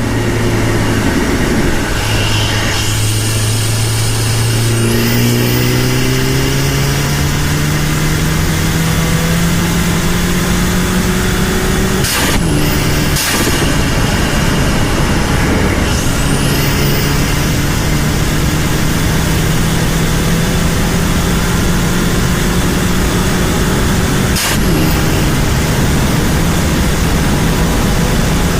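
Turbocharged four-cylinder engine of a stage 2 tuned VW Mk6 Golf GTI pulling hard under acceleration. The note climbs steadily through the revs in two long pulls. Each pull ends with a brief sharp crack, and then the revs drop back.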